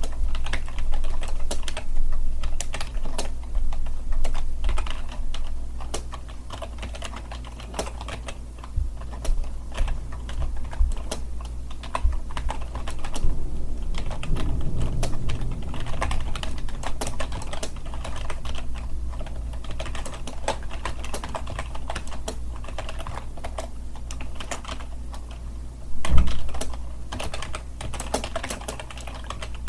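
Computer keyboard typing, a dense, irregular run of key clicks with a steady low hum beneath, and one louder knock about 26 seconds in.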